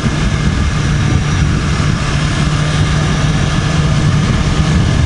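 The 2018 BMW S1000RR's inline-four engine running steadily at a low, even engine speed, with a steady rushing hiss over it.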